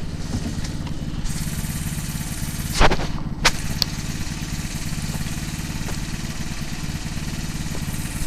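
Three-wheeler ATV's engine idling steadily, left running to warm up after sitting unused a long time. A loud thump comes about three seconds in, with a lighter click just after.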